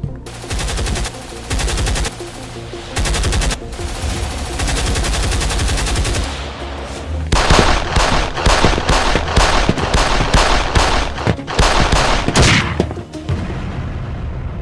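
Bursts of rapid automatic gunfire: several short bursts in the first few seconds, then a long, dense stretch of fire in the second half that stops shortly before the end, over background music.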